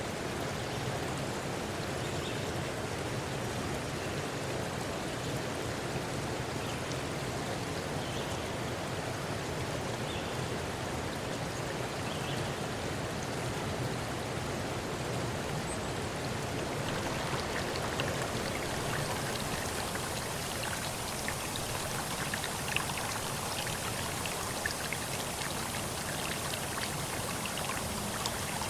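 Steady rush of flowing water, with a scatter of small, sharp drip-like ticks that become more frequent about two-thirds of the way through.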